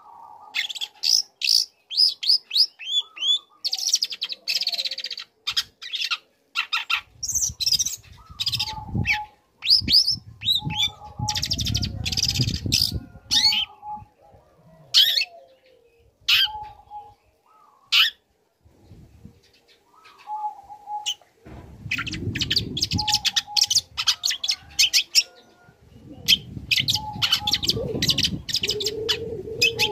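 Young long-tailed shrike (cendet) singing a fast, varied run of chirps, trills and mimicked calls, broken by short pauses. A short lower note repeats about every two seconds from about a third of the way in. Bursts of low rumbling noise come and go several times.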